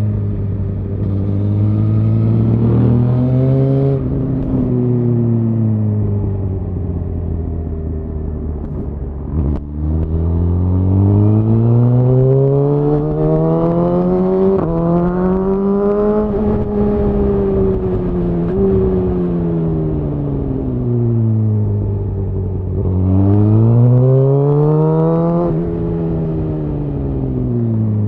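Suzuki GSX-R1000R inline-four engine through a Yoshimura R-11 SQ exhaust, its note rising and falling as the throttle is rolled on and off, with one long pull in the middle. A sharp click and a brief drop in sound come about nine and a half seconds in, just before the long pull.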